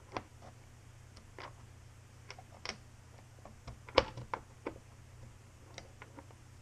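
Scattered light clicks and taps of plastic and metal parts as a JG G36C airsoft rifle is taken apart by hand, with one sharper knock about four seconds in.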